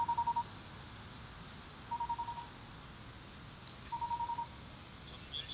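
Audible pedestrian crosswalk signal sounding its walk tone: three short bursts of rapid beeps, one about every two seconds, signalling that the light is green and it is safe to cross. Faint bird chirps near the end.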